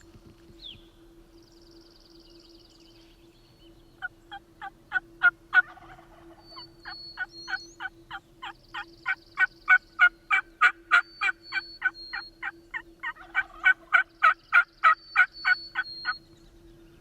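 A long run of turkey yelps, loud and evenly spaced at about three a second, starting about four seconds in with a short break before continuing to near the end. Small songbird trills sound faintly in the background.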